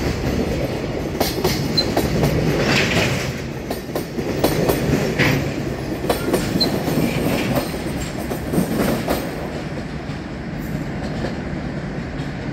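Empty Koki 107 container flatcars of a freight train rolling past, their wheels clattering over the rail joints above a steady rumble, with a couple of brief high squeaks. The clatter eases near the end as the last car goes by.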